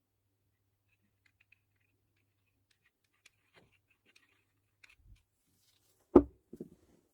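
Small parts and tools being handled during a shifter rebuild: light clicks and taps, then one sharp knock a little after six seconds, followed by a few softer clunks.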